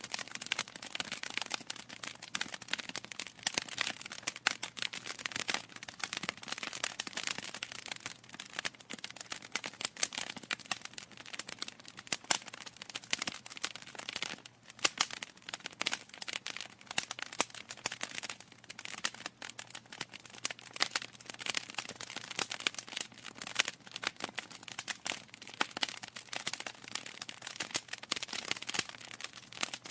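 Wood logs burning in a fireplace, crackling with dense, irregular pops and snaps and a brief lull about halfway through.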